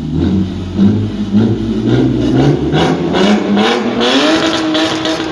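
Exhaust of a Toyota 2JZ-GE naturally aspirated inline-six, revving in a series of short blips that rise and drop back, then climbing about four seconds in and holding at higher revs.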